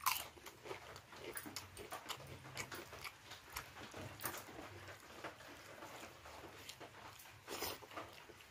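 Close-miked eating sounds: chewing and mouth smacks with irregular small clicks, a louder bite at the very start and another near the end.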